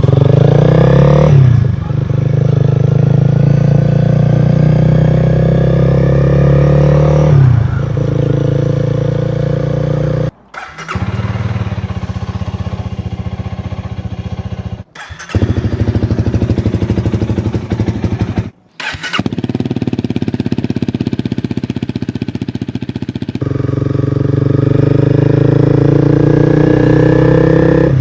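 Honda Rebel 250's single-cylinder engine running through a generic Akrapovic-style slip-on muffler with the catalytic converter removed, idling and blipped, its pitch rising and falling with each rev. The sound cuts off abruptly three times, around 10, 15 and 19 seconds in.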